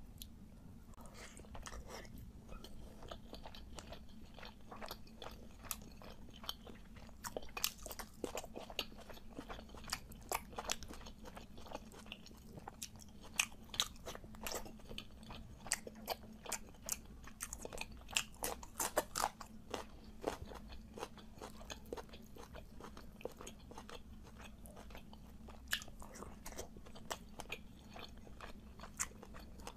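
Close-miked chewing and biting of whole fried fish, with crisp crunches and many sharp crackly mouth clicks, over a faint steady hum.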